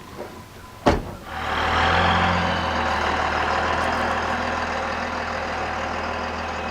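A sharp knock, then a vehicle engine comes up quickly and runs steadily, easing off slowly toward the end.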